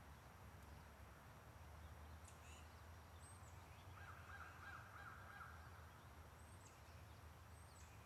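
Near silence with faint bird calls: a few short, high chirps and a soft trill lasting about two seconds midway through.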